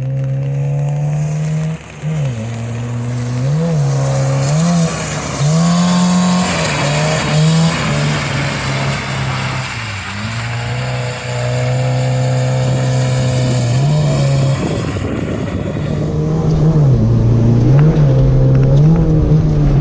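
Toyota Corolla TE71's 2T four-cylinder engine pulling hard, its revs dropping and climbing back again and again as the throttle is lifted and reapplied while drifting. A high hiss runs under it through the middle stretch.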